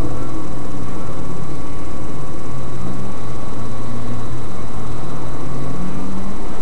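Nissan GT-R R35's twin-turbo V6 idling with the car at a standstill, heard from inside the cabin: a low steady hum with a hiss over it.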